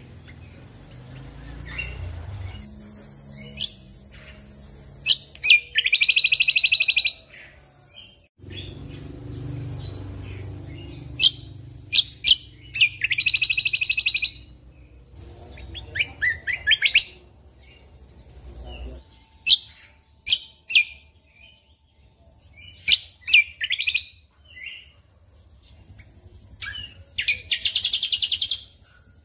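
Cucak kombo (kecial kombok) songbird singing in full voice: sharp, high, quick notes fired off singly and in short runs, broken by three fast buzzy trills of about a second and a half each, the last near the end.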